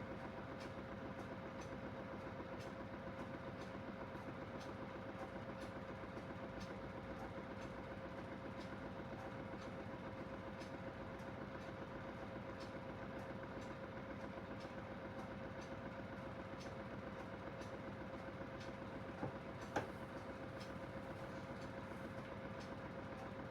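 Aidoo 1 kg mini washing machine running steadily, its direct-drive motor giving a constant even hum with faint regular ticking. Two sharp clicks come about three-quarters of the way through.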